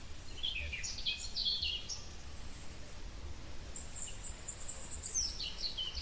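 Birdsong over a steady low background rumble: a quick series of high chirping notes about half a second in, then a thin high held note followed by another run of falling chirps near the end.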